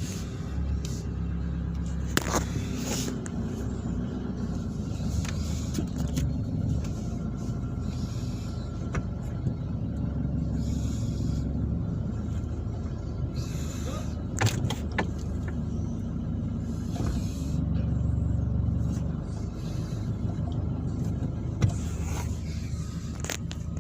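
Nissan Navara engine running steadily with a clanking knock from the clutch and transmission end, with a few sharper knocks now and then. The knock is the fault the dual-mass flywheel is suspected of causing.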